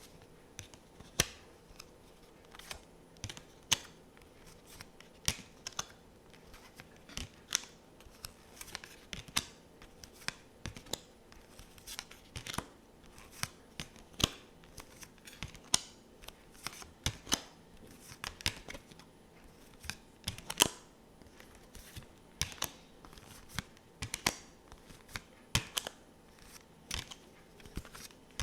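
Tarot cards being handled: a long run of sharp, irregular clicks and taps, about two or three a second.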